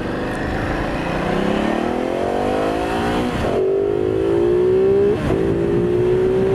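Ducati Multistrada 950's 937cc Testastretta V-twin on the stock exhaust, accelerating hard through the gears. Its pitch rises, drops at an upshift about three and a half seconds in, rises again, and drops at a second upshift about five seconds in.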